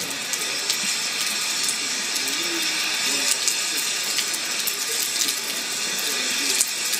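Steady rain falling and splashing on a wet station platform and track, a continuous even hiss with scattered faint ticks of drops.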